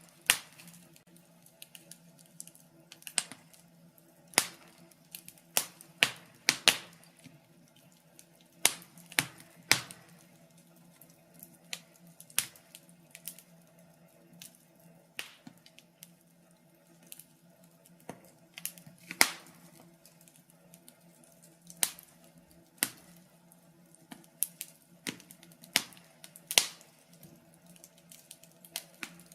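Wood fire crackling in a fireplace: irregular sharp pops and snaps, some loud and some faint, at uneven gaps of a fraction of a second to a couple of seconds. A faint steady hum runs underneath.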